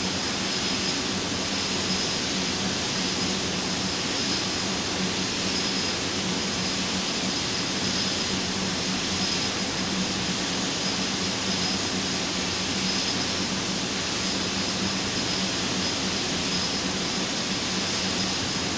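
Steady jet engine and airflow noise heard inside an Airbus A320-214 (CFM56 turbofans) on final approach, with a faint low hum and a thin high whine running evenly throughout.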